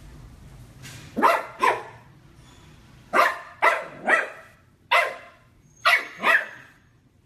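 A dog barking, about eight short barks mostly in pairs with brief pauses between them.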